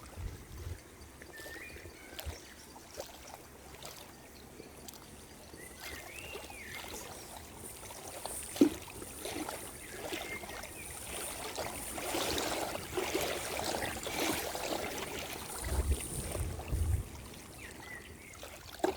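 Water trickling and lapping, swelling for a few seconds past the middle, with a handful of short chirps scattered through and a sharp click a little before halfway.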